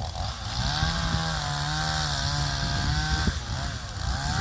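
Two-stroke chainsaw running at high revs, steady for about three seconds, then wavering lower near the end.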